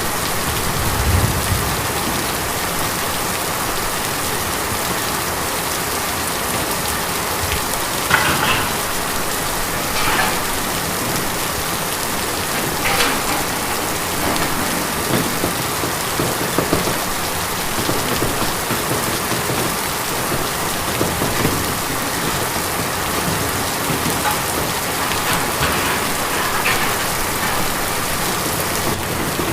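Steady rain falling on a tin roof, an even hiss with a few louder single drops or splashes standing out now and then.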